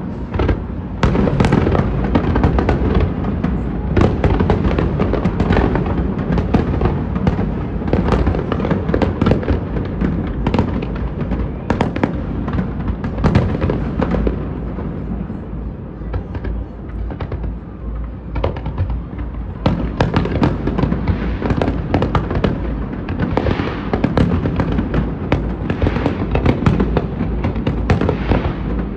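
Fireworks display: a dense run of bangs and crackles that thins out about halfway through, then picks up again a few seconds later.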